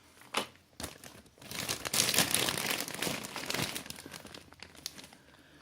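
Plastic packaging crinkling as it is handled, with a few clicks in the first second and steady rustling for about three seconds in the middle.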